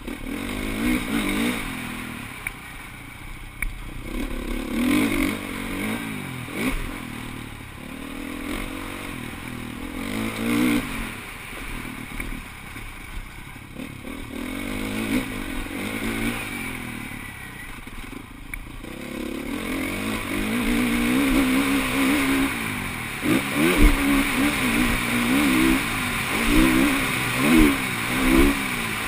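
Motocross bikes running on a dirt track, their engines revving up and down as they pass. More bikes are heard together and the sound gets louder in the last third.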